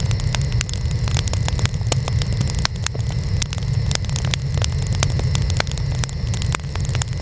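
Wood fire burning: a steady low rumble of flames with frequent sharp, irregular crackles and pops from the burning wood.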